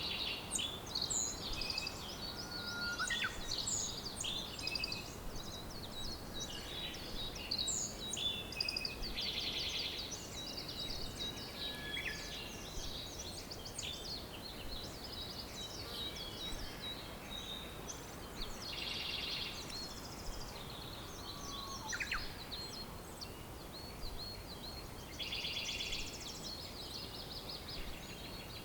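Many songbirds singing and chirping at once over a steady background hiss, with a few short buzzy trills and occasional lower sliding whistles.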